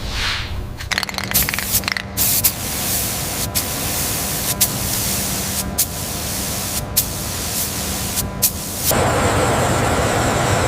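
A steady spraying hiss broken by scattered sharp clicks, which grows louder and fuller about nine seconds in.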